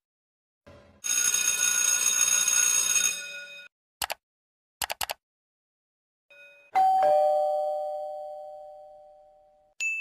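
Two-tone 'ding-dong' doorbell chime: a higher note, then a lower one about a quarter second later, both ringing on and fading slowly over nearly three seconds. Before it comes a noisy sound with steady high tones lasting about two and a half seconds, then a few sharp clicks. A short high 'ding' starts at the very end.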